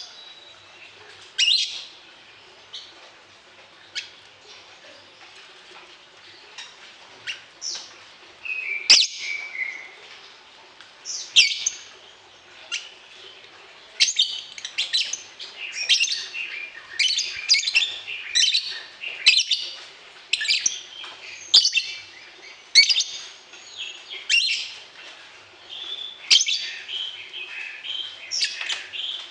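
Songbird chirping: scattered short high chirps at first, then from about halfway a dense, rapid run of chirps and trills.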